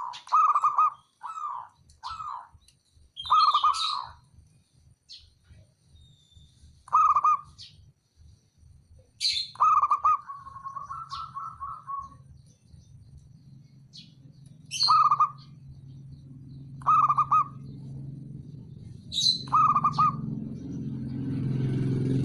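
Zebra dove (perkutut) calling: a series of short cooing phrases around a clear mid pitch, one every second or two, with a faster rolling trill about ten seconds in. A low hum swells toward the end.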